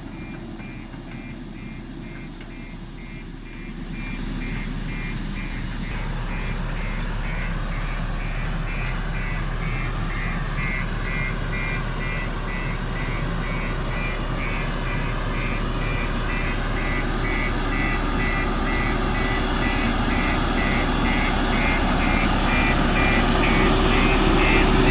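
JCB backhoe loader's diesel engine working under load, growing steadily louder. A machine warning beeper sounds over it in an even repeating pattern throughout.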